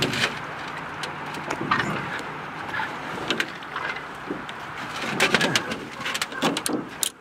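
Steady rush of moving river water, with scattered sharp knocks and clicks.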